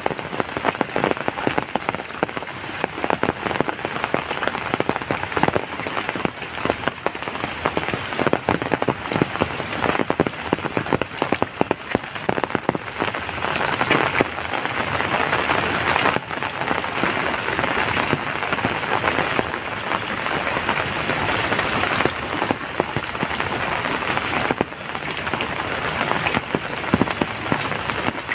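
Heavy rain falling steadily, a dense rush dotted with many sharp drop impacts on a nearby surface.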